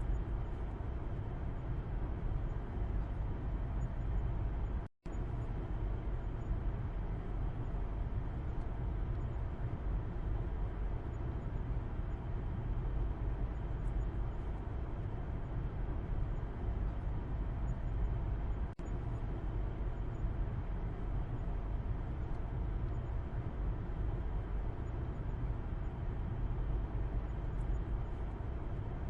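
Steady road and engine rumble inside a moving car, as heard from the back seat, heavy in the low end. The sound cuts out completely for a split second about five seconds in.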